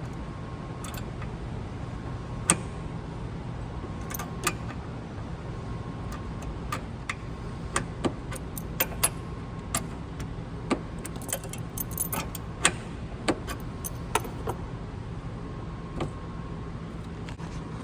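An adjustable wrench working the nut off a car battery's hold-down bracket bolt: irregular sharp metal clicks and clinks, in quick clusters at times, over a steady low hum.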